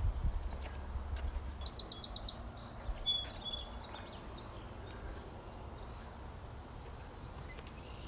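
A songbird calling: a quick run of about five high notes about two seconds in, then a few scattered chirps. Footsteps thud on the wooden bridge decking at the start.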